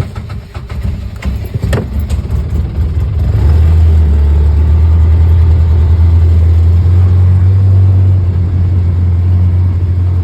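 Vehicle engine running: uneven and pulsing at first, then about three seconds in it settles into a steady, loud low drone.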